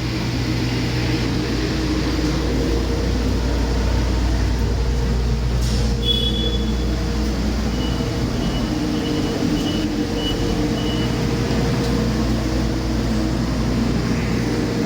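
Detroit Diesel DD15 inline-six diesel engine running steadily. A short high tone sounds about six seconds in, and a faint on-and-off high tone follows a few seconds later.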